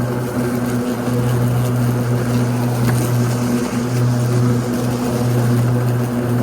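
Ryobi 80V electric riding lawn tractor mowing, its electric blade motors spinning at medium speed with a steady hum that dips briefly a couple of times.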